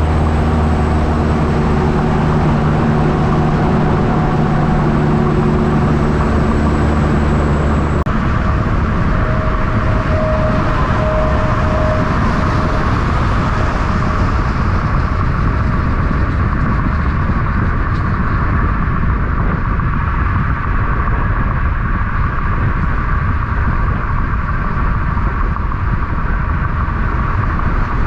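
Truck traffic: a truck's engine running with a steady low hum, then, after an abrupt change about eight seconds in, a steady roar of passing road traffic.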